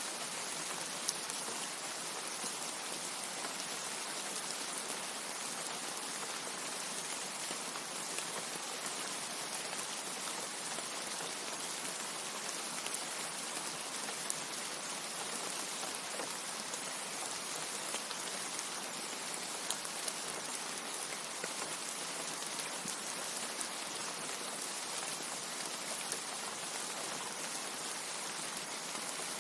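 Steady rain falling: an even hiss with a few slightly louder drop ticks.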